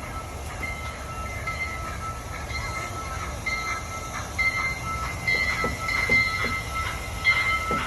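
Amusement-park ride train rolling along its track, heard from aboard: a low rumble with a thin, high, steady wheel squeal that grows louder. About halfway through, sharp clacks join in, a few per second.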